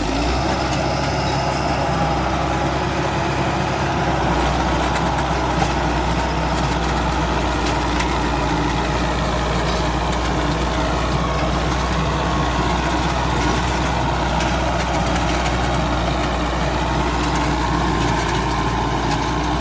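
Tractor diesel engine running steadily, powering a Landforce super seeder. The low hum strengthens about four seconds in.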